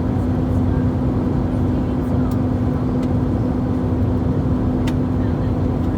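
Airbus A321-231 cabin noise in flight: the steady roar of its IAE V2500 engines and the airflow, with a steady low hum running through it.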